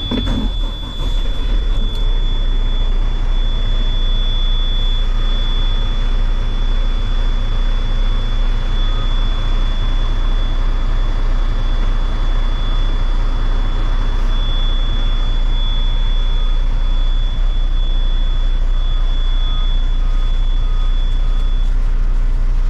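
Western Star semi-truck's diesel engine starting about a second in, then idling with a steady low rumble. A thin, steady high-pitched tone sounds over the idle and stops near the end.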